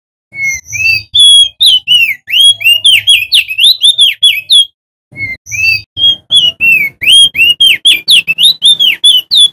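Male opior jambul (crested white-eye) singing loudly: two long, rapid phrases of whistled notes that swoop up and down, each opening with a few slower rising notes, with a short pause about halfway through.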